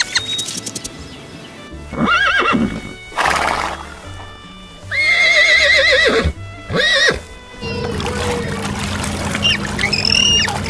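Animal calls over background music: several loud calls with a wavering, quavering pitch, the longest just past the middle, and shorter calls near the end.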